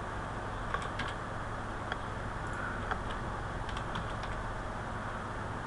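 A few scattered keystrokes on a computer keyboard, faint against a steady background hiss.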